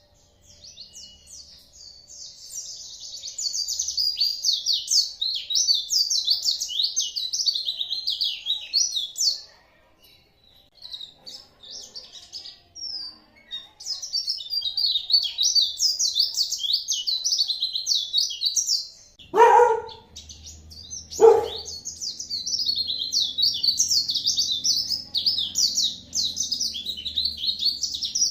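Pleci (white-eye) singing in long, fast, high-pitched twittering runs, with a quieter stretch of scattered notes in the middle. Two brief, louder, lower sounds come about two seconds apart before the song resumes.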